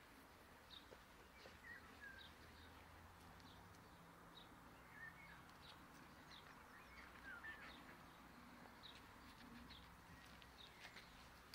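Near silence with faint, scattered bird chirps and a low steady background hum.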